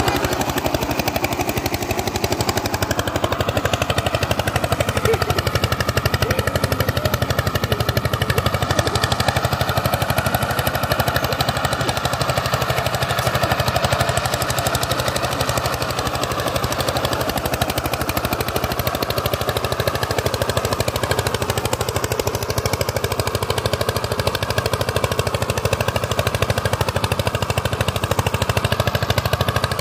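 Power tiller's diesel engine running steadily, a fast, even stream of knocking firing strokes.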